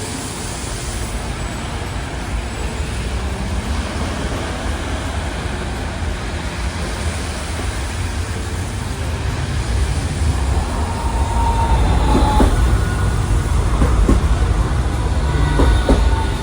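Hiroden streetcar rumbling along street track amid road traffic, growing louder about two-thirds of the way in as it draws close, with thin high wheel squeals near the end.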